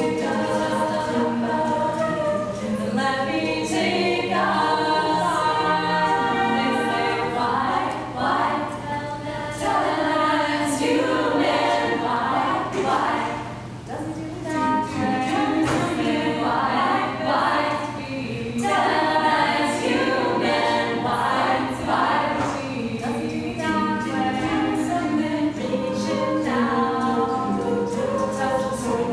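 A vocal group singing a song in several-part harmony, a cappella.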